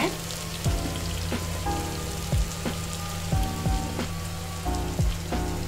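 Oil sizzling steadily in a stainless steel kadai, frying onion-tomato masala with freshly added red chilli and turmeric powder, over background music with a steady beat.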